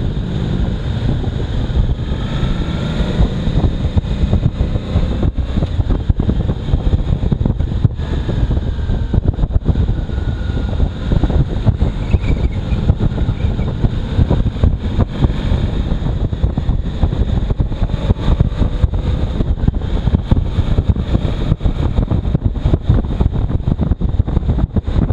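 Strong wind buffeting the microphone of a moving motorcycle, a constant heavy rumble with rapid gusty spikes. A motorcycle engine runs faintly underneath, its pitch rising and falling slightly.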